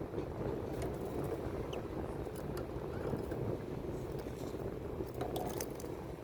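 Steady low background noise with scattered faint clicks, and a single brief high chirp from a greenfinch a little under two seconds in.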